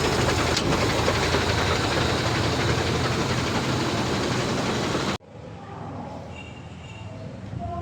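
A heavy truck engine running, loud and steady, which cuts off abruptly about five seconds in, leaving quieter workshop background.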